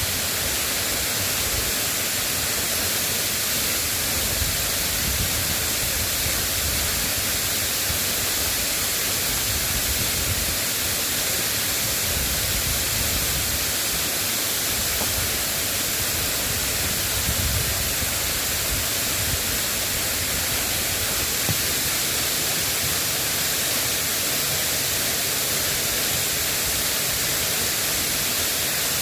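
Steady hiss of drizzling rain, with soft low rumbles now and then.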